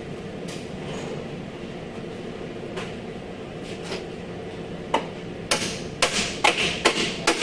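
A few faint clicks over steady low workshop noise, then from about five seconds in a run of sharp hammer blows, about two a second, in bodywork on the damaged front end.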